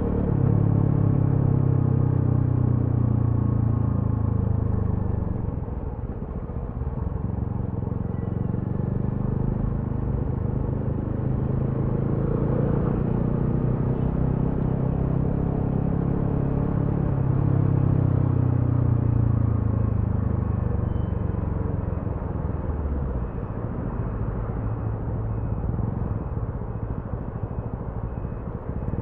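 TVS Apache RTR 200 4V's single-cylinder four-valve engine and exhaust under way. The engine note falls off as the bike slows in the first few seconds, climbs again as it accelerates, then drops back and settles.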